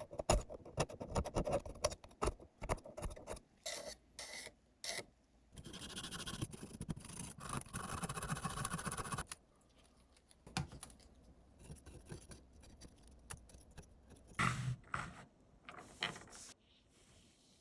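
Hand work on small hard parts: scratching and scraping with clicks of handling, and a steadier stretch of rubbing from about six to nine seconds in.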